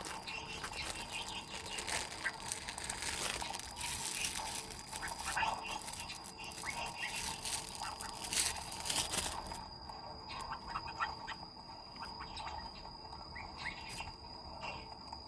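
Birds chirping, with many short chirps, busiest in the first two-thirds. A steady high insect trill, such as a cricket's, runs under it and is plainest near the end.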